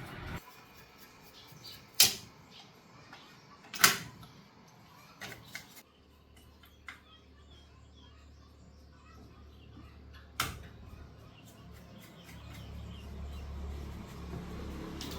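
Three sharp knocks a few seconds apart, with a few lighter taps between. About halfway through a low, steady hum starts and slowly grows louder.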